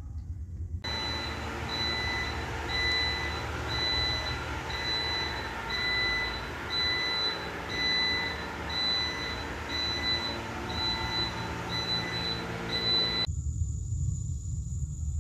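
A steady electronic beep, a little more than one a second, over the continuous noise of running machinery; it starts and stops abruptly.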